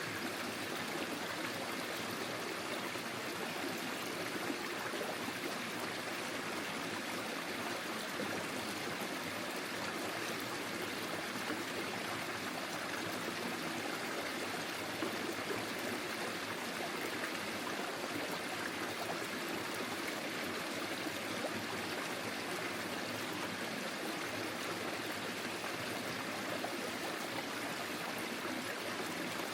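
Small forest stream flowing steadily over stones, a continuous babbling and trickling of water.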